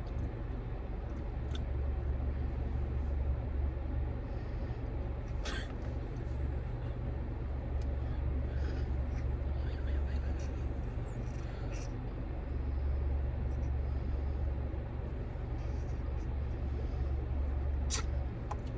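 Steady low rumble of a car heard from inside the cabin, with a few faint clicks or rustles.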